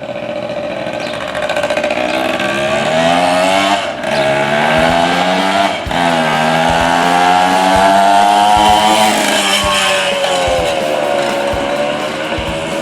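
Kawasaki KM100's small two-stroke single-cylinder engine running while the bike is ridden, its pitch rising and falling with the throttle, with brief drops about four and six seconds in.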